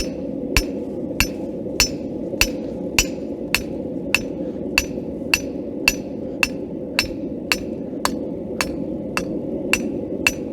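Hand hammer striking hot steel on an anvil in a steady rhythm, a bit under two blows a second, each blow with a bright ring: forging out the body of a leaf. A steady low rushing noise runs underneath.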